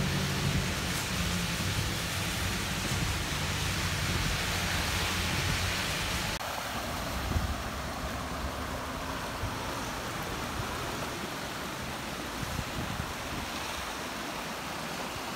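Steady rain and rushing floodwater. At first it is rain on a car heard from inside. After a cut about six seconds in, it is rain and storm runoff flowing outdoors.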